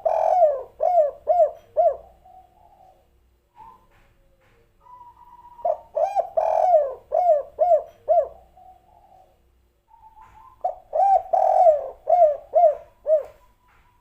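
Spotted dove (tekukur) cooing its 'kuk 3' song: a short lead-in note followed by a quick run of rhythmic coos. The phrase comes three times about five seconds apart, the first already under way at the start.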